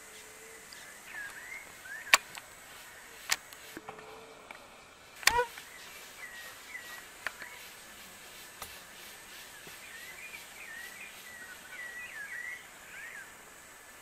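Small birds chirping in short, quick calls, with a busier run of chirps near the end. Three sharp, loud clicks come at about two, three and five seconds in, the last the loudest.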